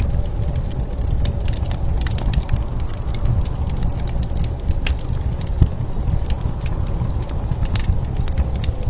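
Wood fire crackling with frequent sharp pops and one louder knock a little past halfway, over a steady low rumble of blizzard wind.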